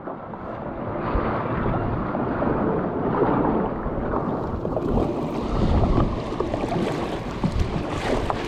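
Wind buffeting an action camera's microphone over the sound of moving water around a kayak: a steady rumbling, rushing noise.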